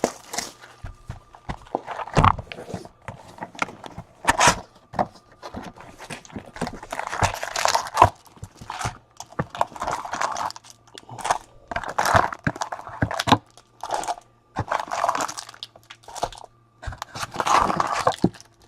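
Trading card packs and cards being handled by hand: wrappers crinkling and tearing and cards sliding and tapping, in irregular bursts about once a second.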